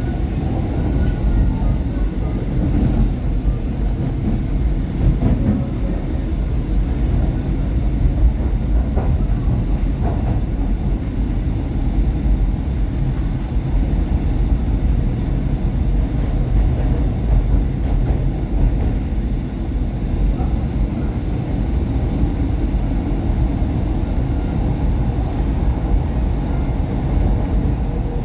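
SEPTA Market–Frankford Line train running on the rails, heard from inside the car: a steady low rumble of wheels and traction motors.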